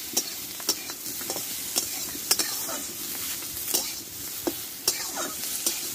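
Brinjal pieces sizzling in hot mustard oil in a metal karai, with a spatula scraping and knocking against the pan at irregular intervals as they are stirred.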